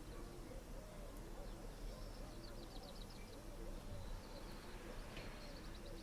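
Pigeons or doves cooing in a low, repeated, rolling pattern, with a small songbird giving two brief high rapid trills, once about two and a half seconds in and again near the end; faint outdoor ambience.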